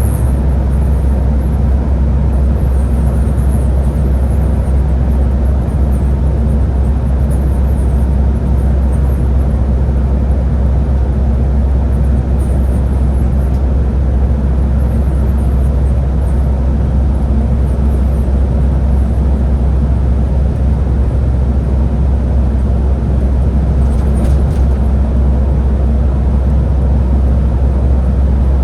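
Scania Higer A30 city bus running steadily: a constant low engine and road drone.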